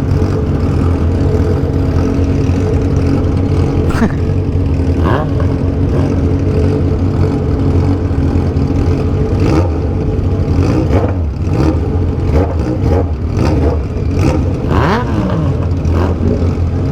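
Motorcycle engines with aftermarket 3-inch exhausts running steadily under way, with several revs rising and falling in the second half.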